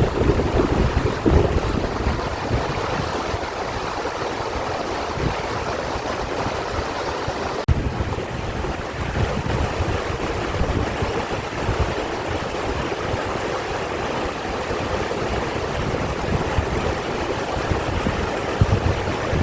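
Mountain valley stream rushing steadily, with wind buffeting the microphone in low gusts.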